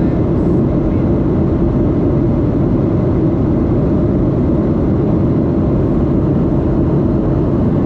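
Steady, loud cabin roar of a Boeing 737-8 in flight, its CFM LEAP-1B engines and airflow heard from a seat beside the engine, deep and unchanging.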